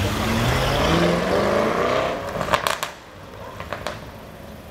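Mansory-tuned Mercedes G63 AMG 6x6's twin-turbo V8 accelerating away, rising in pitch over the first two seconds and then dropping off to a faint rumble. A few sharp clicks come about two and a half seconds in.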